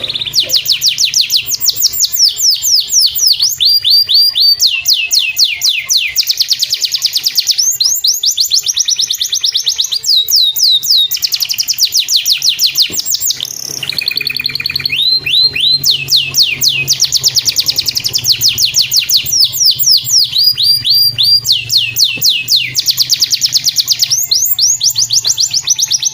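Canary singing: long, fast trills of quickly repeated high sweeping notes, almost without a break apart from a short pause about halfway through.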